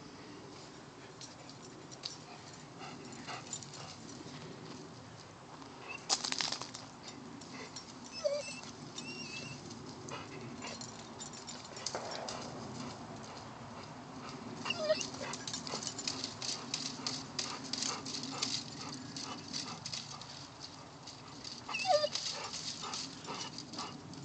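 Golden retriever giving a few short whimpers, among clusters of clicking and rustling.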